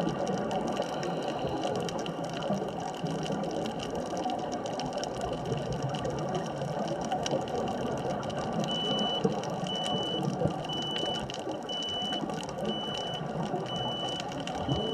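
Underwater ambient noise: a steady hiss and rumble with scattered faint clicks. From about nine seconds in, a high electronic beep repeats roughly once a second, about seven times.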